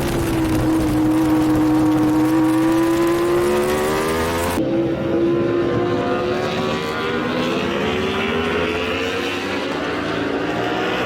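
Racing superbike engine heard on board at high revs, with heavy wind rush. The engine note sags slightly, holds, then climbs steadily under throttle over the last several seconds. The wind hiss drops off sharply about four and a half seconds in.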